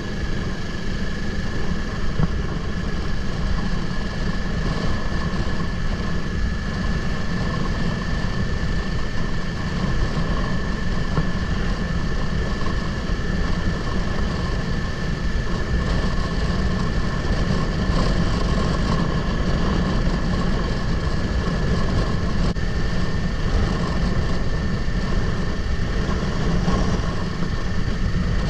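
Wind buffeting a helmet-mounted GoPro microphone as a steady low rumble while riding a 2024 Kawasaki Ninja 500, its parallel-twin engine running underneath. A steady high-pitched whine sits over it.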